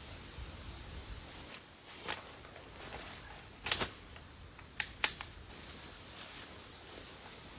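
Scattered sharp clicks and light knocks of small objects being handled. The loudest come a little under four seconds in and as a quick pair about five seconds in.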